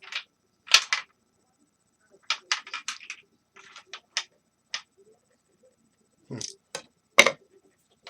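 Space heater parts being handled during disassembly: a string of separate clicks and clatters of small hard pieces, in small clusters about two to four seconds in, with the loudest knock about seven seconds in.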